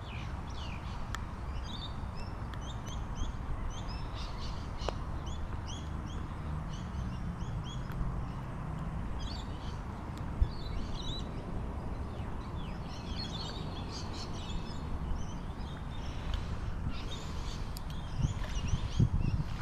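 Birds chirping, with many short high calls coming in clusters, over a steady low background noise.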